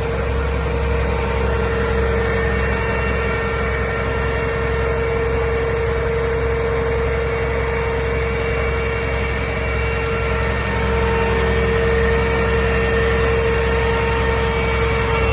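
Renault Camiva fire truck's engine running steadily at idle, with a constant whine over the low rumble.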